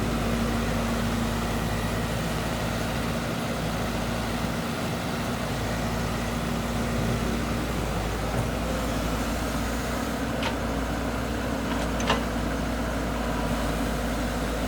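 Diesel engine of heavy earth-moving machinery running steadily, with two short sharp clanks in the second half.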